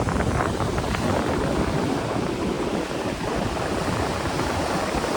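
Sea surf washing against rocky cliffs, a steady rushing noise, with strong wind gusting across the microphone and rumbling.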